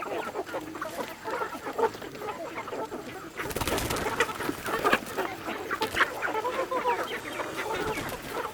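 Chickens clucking, many short calls overlapping. About three and a half seconds in, a burst of rustling or scraping noise comes in under the clucking.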